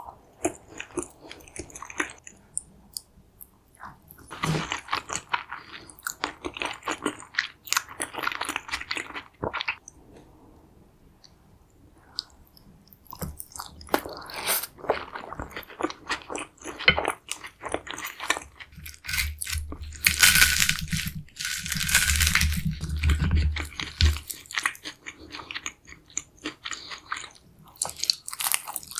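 Close-miked chewing and crunching of a crisp deep-fried carnitas chimichanga, in bouts of crackly bites and chews. There is a short lull about a third of the way through, and the loudest crunching comes about two-thirds of the way in.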